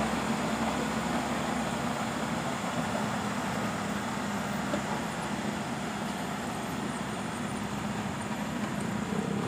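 Kubota DC-70 Plus combine harvester working, its engine and machinery running with a steady, even drone.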